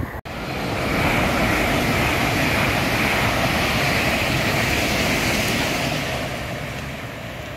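Train passing at speed: a steady rushing noise that slowly fades away near the end, after a brief cut about a quarter second in.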